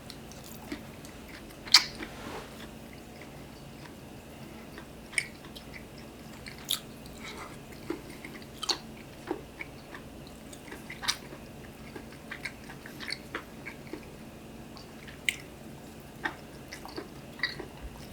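Someone eating: chewing, with irregular sharp clicks and light crunches, one every second or so, the loudest about two seconds in.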